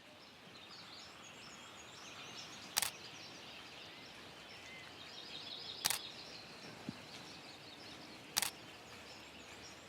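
Faint birdsong and chirping from several small birds over quiet outdoor ambience, broken three times by a single sharp camera shutter click, about three seconds apart.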